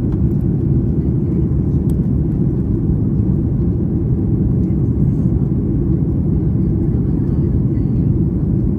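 Steady low rumble inside the cabin of a Boeing 737 MAX 8 during descent.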